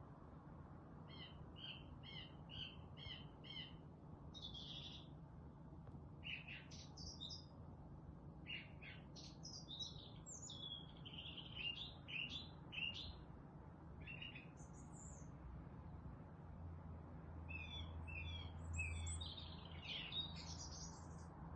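Wild songbirds singing: a quick series of repeated chirps in the first few seconds, then varied whistled and warbled phrases from more than one bird, and another rapid chirping series near the end. A faint steady low hum runs underneath.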